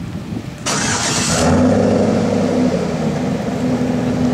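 A sudden loud hiss about a second in, then an engine catches and runs on with a steady low hum.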